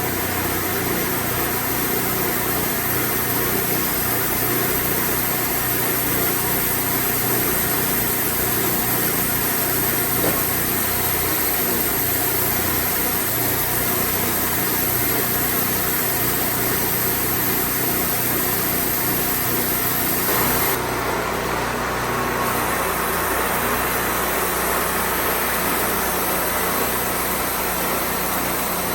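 Band sawmill's engine running steadily. Its sound changes about twenty seconds in, with a steadier low hum and a rougher, noisier edge from then on.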